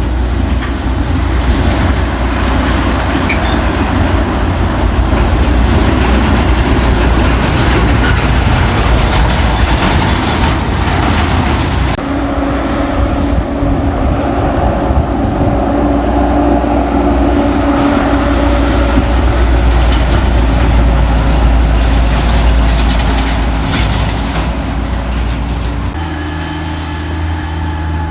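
Heavy diesel trucks climbing a mountain pass: a loud, steady low engine rumble under load, changing abruptly about twelve seconds in and again near the end.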